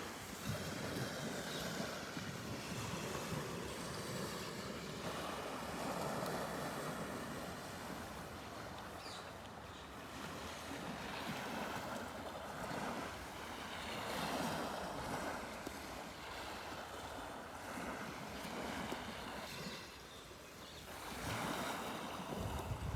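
Wind and water lapping at a shore, an even rushing noise that swells and eases every few seconds.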